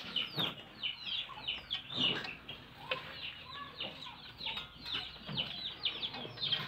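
Small birds chirping nonstop: a steady string of short, high, falling peeps, several a second, with a few faint knocks of handling in between.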